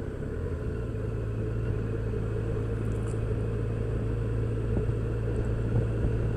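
Yamaha FJR1300's inline-four engine running steadily while the motorcycle is ridden, with a constant low hum and road and wind noise.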